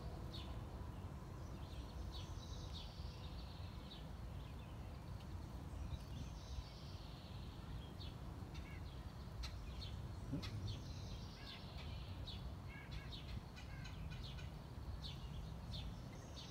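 Small birds chirping at irregular intervals over a steady low outdoor rumble.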